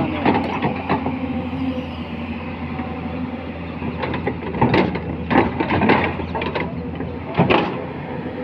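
Excavator diesel engine running steadily, with several sharp metallic clanks about halfway through and again near the end.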